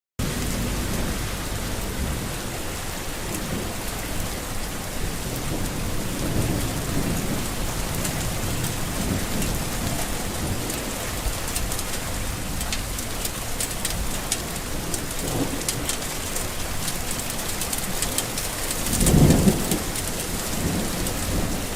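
Steady heavy rain with low rolls of thunder swelling and fading several times; the loudest thunder rumble comes about three-quarters of the way through.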